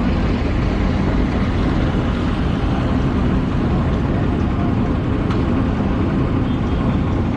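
Steady low rumble of vehicle engine and road noise.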